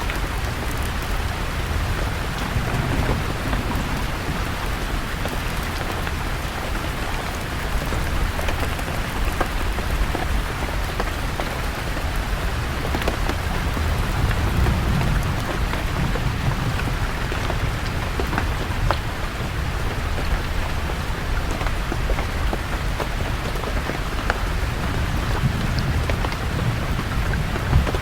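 Steady rain falling on forest leaves, with many fine drips and low rolls of thunder swelling and fading a few times.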